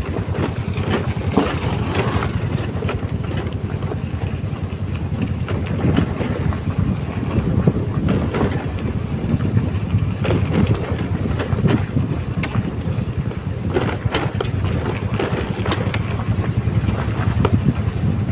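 TVS Ntorq scooter running steadily on a night ride, with wind buffeting the microphone. Many short knocks and rattles run through it throughout, typical of jolts on a rough road.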